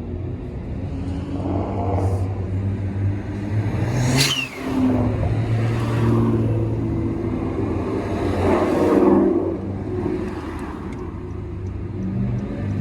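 Car engines running, with revving that rises and falls in pitch and a louder swell near the end; a brief sharp high sound about four seconds in.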